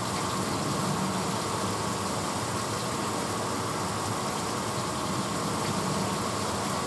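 1986 Hotpoint Potwasher dishwasher running mid-cycle: a steady motor hum with water spraying inside the tub.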